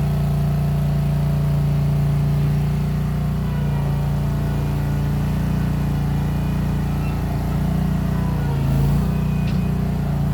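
Case 1816 skid steer's replacement engine running steadily under work, exhausting through small round mufflers, its pitch dipping and recovering briefly near the end.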